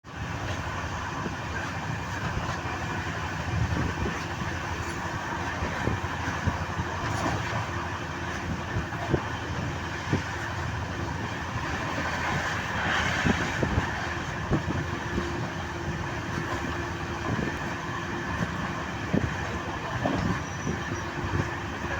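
Passenger train running: a steady rumble with scattered sharp knocks from the wheels over the rails.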